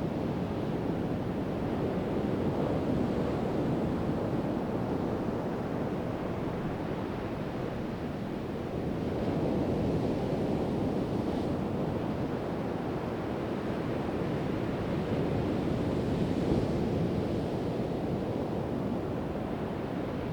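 Pacific Ocean surf breaking and washing onto a sandy beach, a steady low rush that swells and eases slowly, with some wind on the microphone.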